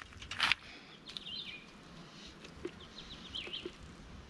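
Small birds chirping in short, quick, up-and-down calls, with a brief scraping noise about half a second in and a few faint clicks.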